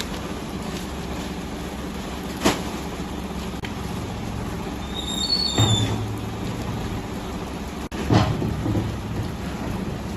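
Steady noise of pouring water, with a sharp knock about two and a half seconds in and another about eight seconds in.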